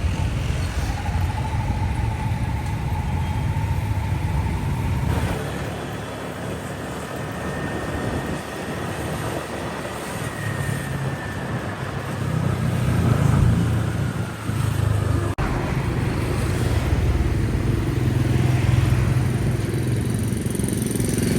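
Riding a motorcycle through city traffic: steady engine and road rumble with traffic around, growing louder in the second half.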